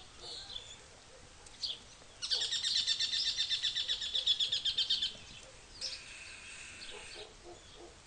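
A bird singing a fast, high trill for about three seconds, starting about two seconds in, then a fainter, shorter trill near the end.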